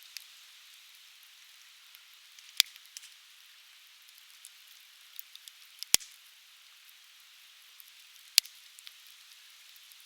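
Conifer firewood burning in an open fire, crackling lightly over a steady hiss, with three sharp loud pops spaced a few seconds apart.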